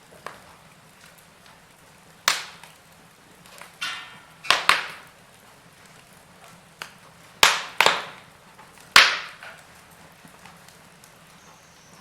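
Wood fire crackling in a fireplace: burning logs give a string of sharp, irregular pops and snaps over a low steady hiss.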